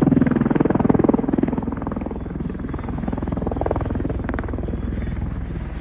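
MV-22 Osprey tiltrotor in flight, the rapid chop of its proprotor blades over the engine noise. It is loudest at first and eases off about two seconds in, then holds steady.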